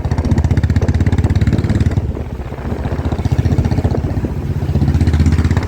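Motorcycle engine running under way at riding speed with a rapid, steady exhaust beat. It eases off briefly about two seconds in and then picks up again.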